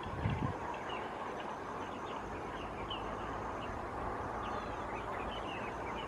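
Many short bird chirps scattered throughout, over a steady outdoor hiss, with a brief low thump just after the start.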